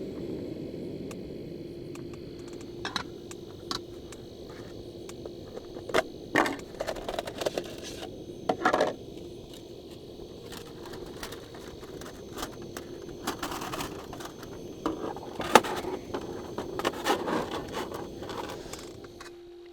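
Small hard objects being handled: scattered clicks, clinks and short scrapes, over a steady low hum.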